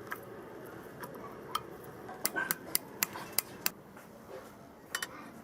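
Sharp clicks and light taps of hard parts being handled, about a dozen in all, most in a quick irregular run in the middle and a double click near the end.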